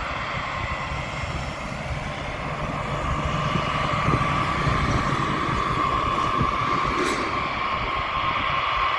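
Aircraft engines running steadily: a constant high tone over a low rumble, growing a little louder about three seconds in.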